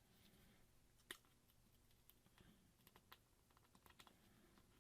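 Near silence with faint small metallic clicks and ticks from a precision screwdriver seating and turning tiny phone screws: one slightly louder click about a second in, then a scatter of lighter ticks.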